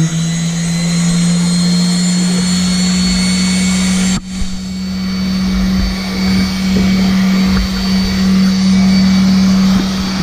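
Electric power sander running steadily: a constant motor hum with a high whine over it, briefly cutting out about four seconds in and resuming a little higher in pitch.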